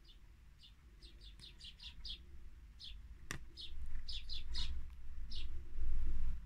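Small birds chirping at a peanut feeder: runs of short, high chirps that drop in pitch, with a single sharp click about three seconds in. A low rumble grows louder in the second half.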